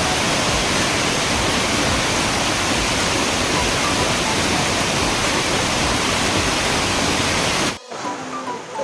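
Fast-flowing river water rushing loudly and steadily close by; the sound cuts off abruptly near the end, leaving a much quieter background.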